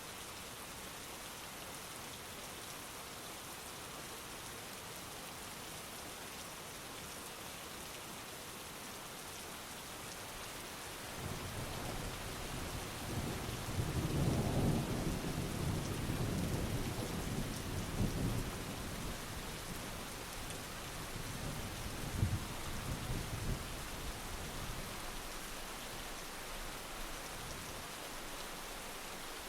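Heavy steady rain, with a rolling thunder rumble that builds about ten seconds in, swells and fades over the next dozen seconds, with one sharper crack in it.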